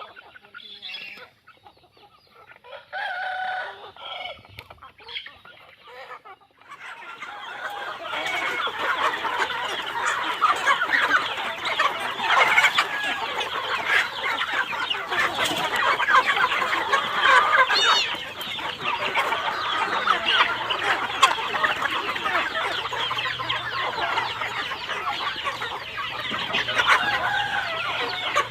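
Chickens clucking: a few scattered calls at first, then from about seven seconds in a dense, continuous clucking from a flock.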